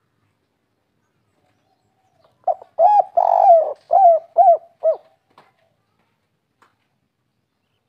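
Spotted dove (tekukur) singing one 'kuk 3' song phrase: a short opening note, a longer rolling coo, then three separate coos at the end.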